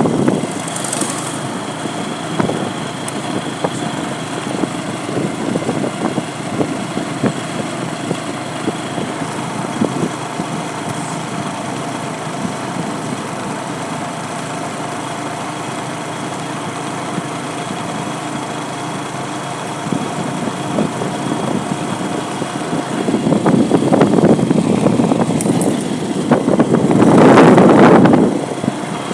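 A small vehicle engine running steadily, growing louder twice near the end.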